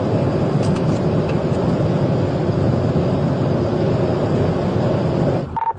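Steady road, wind and engine noise inside a patrol car pursuing at well over 100 mph. It drops away abruptly near the end, with a short beep.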